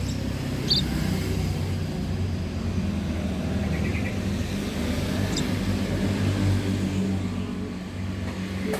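A steady low engine drone, like a motor vehicle running nearby, with a few brief high chirps from small birds over it.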